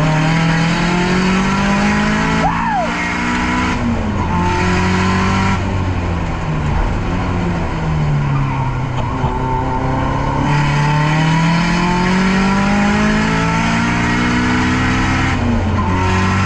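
Nissan S13's turbocharged SR20DET four-cylinder working hard on a race track: the revs climb, drop briefly about two and a half seconds in, climb again, fall away for a few seconds off the throttle, then climb in one long pull before dropping near the end. A short squeal sounds about two and a half seconds in.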